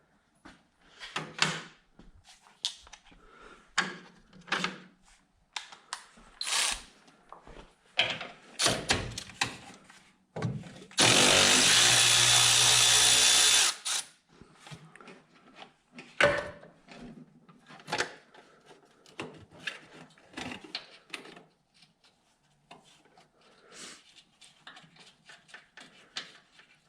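A power tool runs in one steady burst of nearly three seconds about eleven seconds in, amid scattered clicks and clanks of tools and parts being handled.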